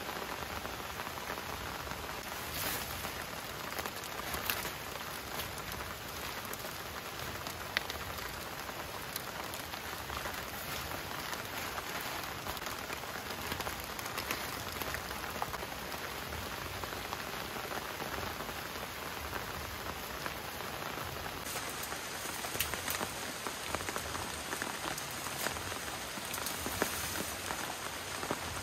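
Steady rain falling, an even patter with scattered louder drips.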